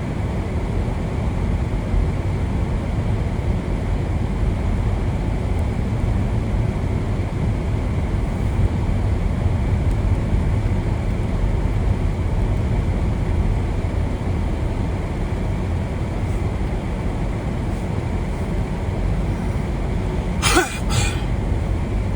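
Steady low rumble of a moving vehicle's road and engine noise. Two short sharp clicks come close together near the end.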